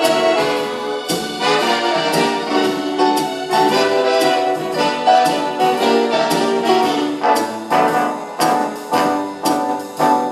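Instrumental break of a 1940s-style dance band arrangement, brass section with trumpets and trombones carrying the melody over the band. Over the last few seconds the playing turns to short, sharp, evenly spaced accented chords.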